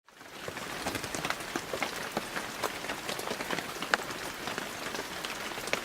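Steady rain falling, with many separate drops ticking on hard surfaces; it fades in at the start.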